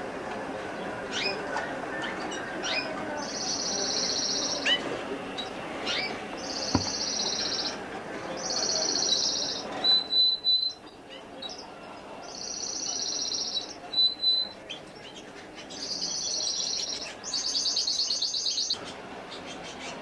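A songbird singing close by: repeated rapid high trills about a second and a half long, with short high whistled notes and falling chirps between them.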